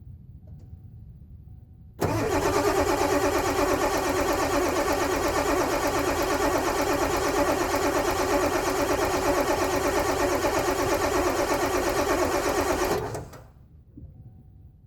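Starter cranking the 1996 Ford F350's 7.3 L Powerstroke turbo-diesel V8 in a cold start, a loud fast-pulsing churn for about eleven seconds that stops suddenly. It is a hard cold start with worn-out glow plugs.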